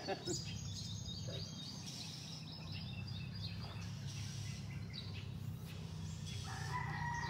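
Small birds chirping in runs of short high notes over the first few seconds, over a steady low hum, then a longer, lower bird call about six and a half seconds in.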